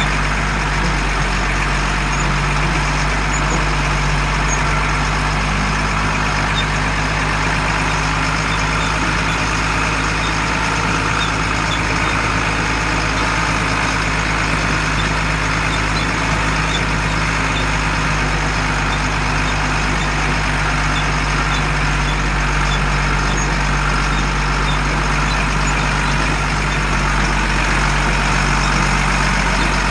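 LMTV M1078 military truck's diesel engine running steadily, with an even low drone that does not change.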